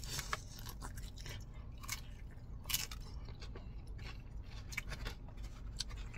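A person biting into crispy spicy fried chicken and chewing it, with scattered faint crunches and wet mouth clicks; the sharpest crunch comes about three seconds in.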